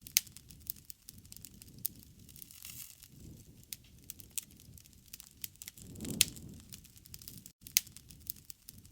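Wood fire crackling, with irregular sharp pops over a low rushing of the flames that swells about six seconds in, where the loudest pop falls. The sound briefly drops out about seven and a half seconds in.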